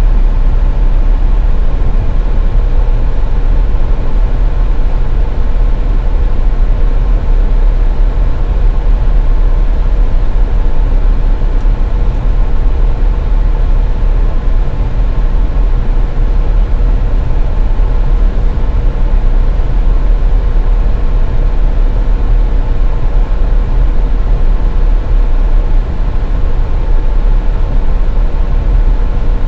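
Steady, loud low rumble of a car being driven on a highway, with a faint constant hum above it.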